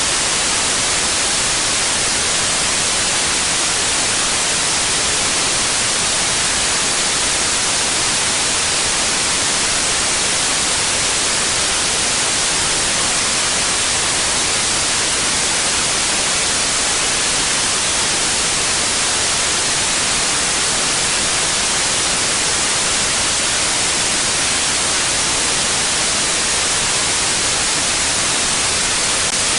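Steady white noise: an even, unchanging hiss, loud and brightest in the high range.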